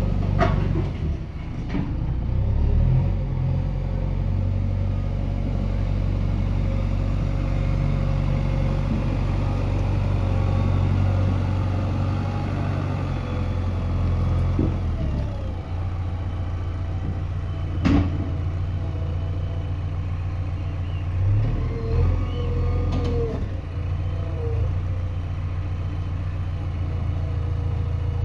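Backhoe loader's diesel engine running steadily, with a few sharp knocks, the loudest about two-thirds of the way through.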